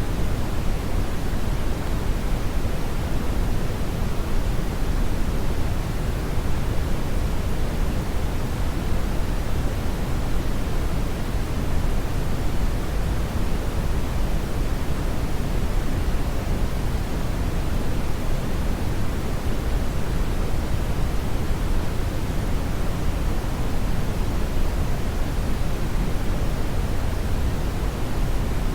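Steady brown noise: an even, featureless rushing hiss weighted heavily toward the low end, with no changes or events.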